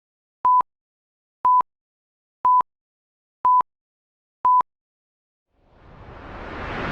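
Five short electronic beeps at a single steady pitch, one a second, in dead silence. Near the end a rushing hiss fades in and grows louder.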